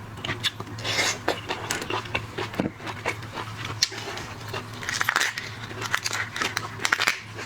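Shrimp or crab shells being cracked and torn apart, mixed with close-up biting and chewing: an irregular run of crackles and clicks.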